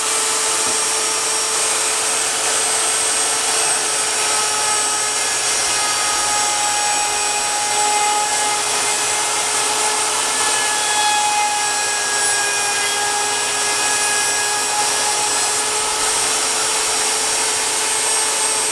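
Electric power tool running at a steady speed with a constant high motor whine while cutting into the wood of a pine 2x4 bowl blank.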